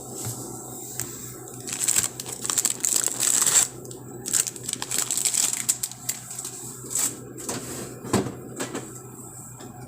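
Crinkling and rustling of packaging handled in two bursts of a couple of seconds each, followed by a few sharp clicks and knocks, as ingredients for a breakfast sandwich are got out.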